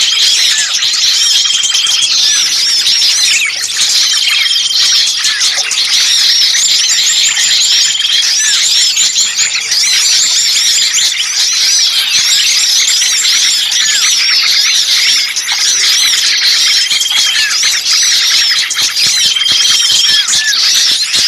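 A dense, unbroken chorus of many small birds calling noisily with rapid high-pitched chirps and squeals, from a bird-lure (pikat) recording made to draw birds in. A short, level whistled note recurs every few seconds.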